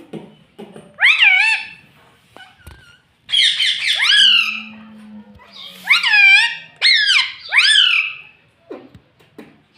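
Pet parrot giving a string of loud, high calls that sweep up and then down in pitch, about five of them with short gaps between.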